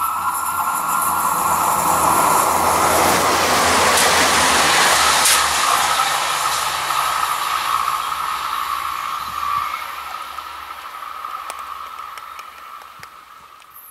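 Blue TER multiple unit running past on the line. Its running noise swells as it approaches, peaks about four to five seconds in, then fades steadily as it draws away.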